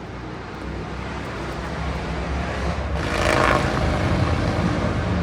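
A vehicle's engine rumbling and growing louder, with a burst of hiss about three seconds in.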